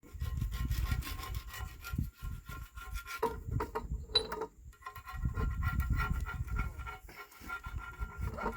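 Irregular scraping and rubbing strokes over a low rumble, with brief pauses about two seconds in, around four and a half seconds and around seven seconds.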